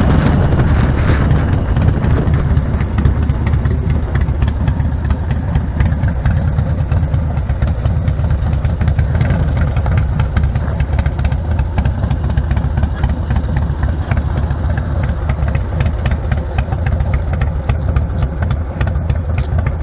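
Chopper's V-twin engine running steadily at low revs, with no revving up or down. It flares briefly louder at the very start.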